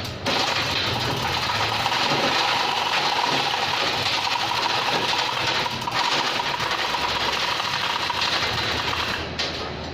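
A machine running steadily with a rapid rattle and a steady whine, stopping shortly before the end.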